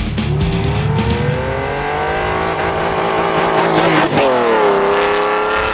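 Car engine accelerating hard, its pitch climbing steadily. About four seconds in comes a quick gear change that drops the pitch, and then it climbs again.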